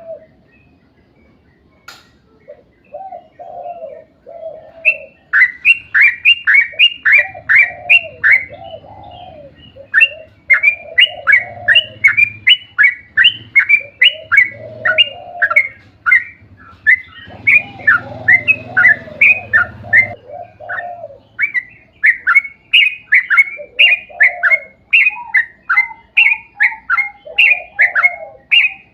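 Yellow-vented bulbul (trucuk) song in a long rapid run: loud, sharp chirping notes about four a second over lower bubbling, warbled phrases. It starts almost silent, with a few low phrases, and the fast chirping sets in about five seconds in.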